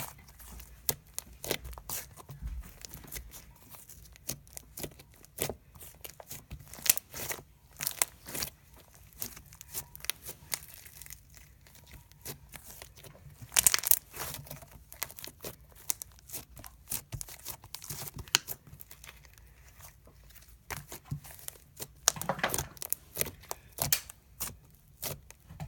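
Slime being squished and worked by hand, giving irregular crackles and pops, with a few louder bursts.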